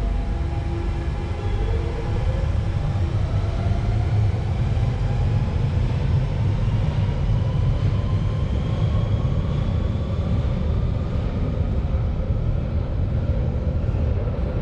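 Central Line 1992 Stock tube train accelerating, its traction motors whining in several tones that rise steadily in pitch over a heavy rumble.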